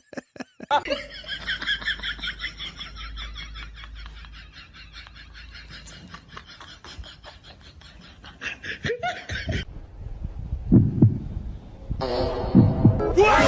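High-pitched laughter in quick rhythmic pulses, going on for most of the stretch and breaking off for a moment before more laughter near the end.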